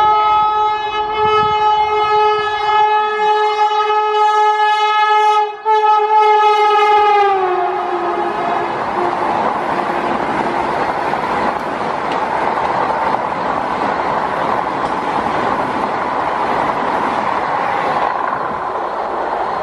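Vande Bharat Express electric train sounding a long horn blast as it approaches, with a brief break about five and a half seconds in. The horn drops in pitch as the train reaches the camera, about seven seconds in. It gives way to the loud steady rush and wheel rumble of the coaches passing close by at speed.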